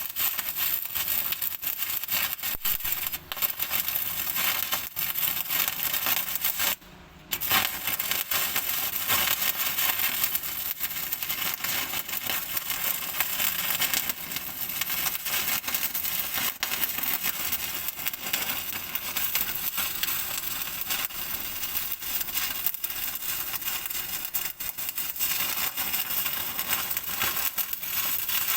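Electric arc welding on a steel bucket: a continuous, dense crackle and sputter from the arc. It breaks off for about half a second around seven seconds in, then is struck again and carries on.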